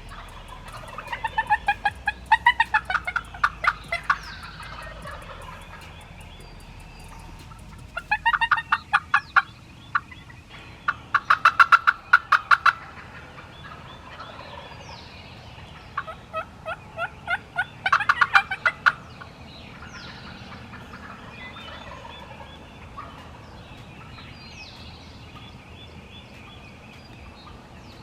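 Wild turkey gobbling: four rounds of loud, rapid rolling gobbles a few seconds apart. Small birds' short downward chirps sound between the gobbles.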